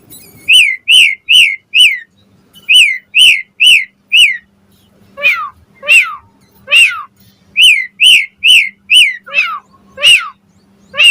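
Asian pied starling (jalak suren) singing: loud, clear whistles, each sliding down in pitch, in quick runs of about four with short breaks. A few longer notes sweep further down, twice in the middle and again near the end.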